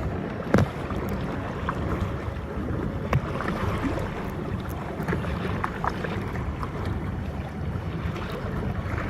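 Choppy water sloshing and slapping around a paddled kayak, with wind on the microphone. A few sharp knocks or splashes stand out, the loudest about half a second in and another about three seconds in.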